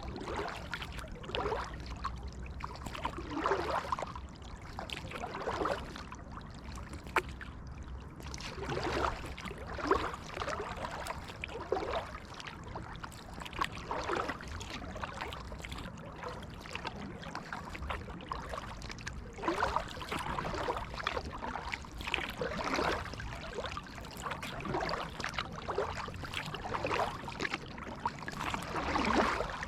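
Kayak paddle blades dipping and pulling through creek water, a splashy swish with dripping about every one to two seconds.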